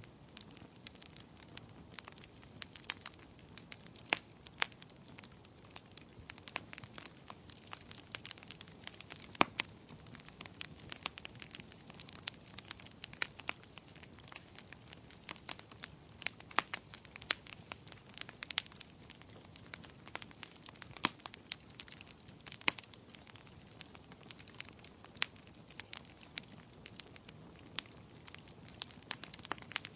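Wood fire in a fireplace crackling: frequent sharp, irregular pops and snaps over a soft steady hiss of burning.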